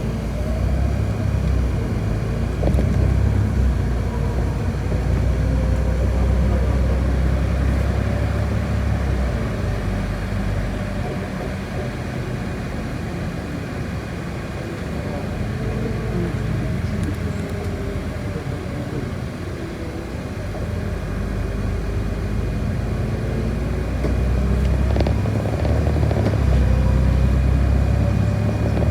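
City bus engine and road noise heard from inside the moving bus, a steady low drone with a faint whine that slides up and down in pitch as the bus changes speed. It is louder in the first nine seconds and again over the last five.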